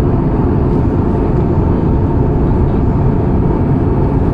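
Steady cabin roar inside an Airbus A320-214, the deep, unbroken rush of engines and airflow heard from a passenger seat in flight.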